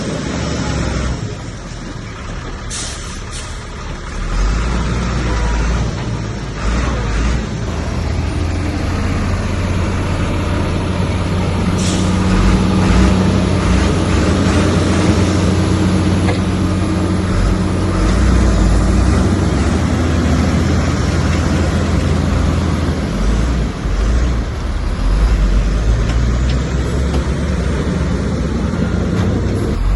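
Heavy diesel engine of earthmoving machinery running steadily under load, growing louder from about four seconds in. Two brief hisses come near three seconds and near twelve seconds.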